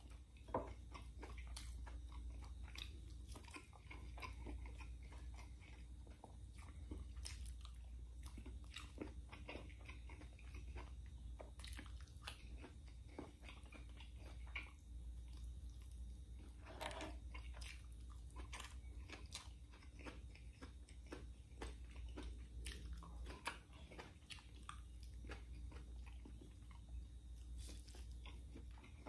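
Mouth sounds of a man eating pork adobo and fried tofu by hand: chewing, lip-smacking and biting, with many irregular wet clicks and an occasional crunch, over a steady low hum.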